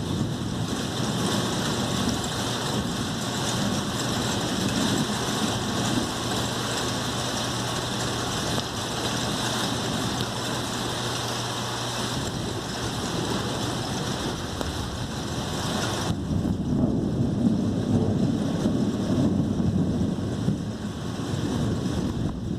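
Rain in a thunderstorm: a steady hiss with a faint low hum in the first half. About two-thirds of the way in, the hiss drops back and a louder, deeper rumble takes over.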